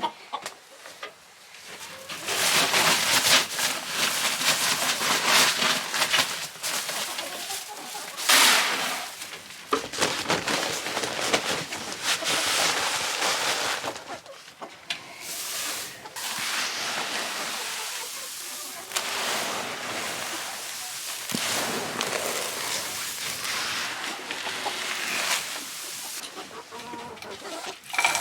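Chickens clucking, over a loud rustling, hissing noise that starts about two seconds in and swells and dips throughout.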